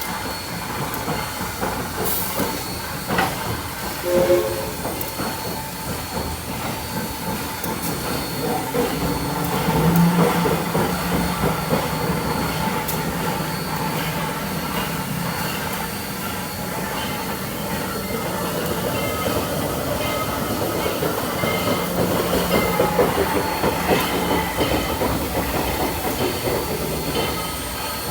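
A train rolling past, its wheels rattling over the rails with a steady low hum running under it; the noise holds at an even loudness throughout.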